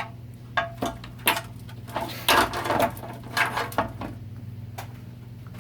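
Metal parts of a 4L60-E automatic transmission being handled during teardown: a run of irregular clanks, knocks and scrapes, busiest a little past the middle, over a steady low hum.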